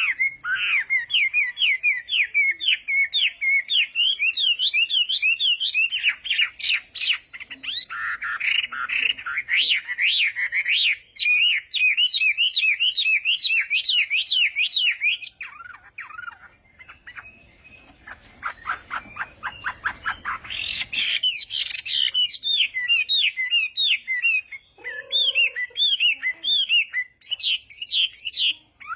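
Chinese hwamei (laughingthrush) singing loud phrases of fast repeated whistled notes, one phrase after another; the song drops quieter for a few seconds past the middle, then picks up again loudly.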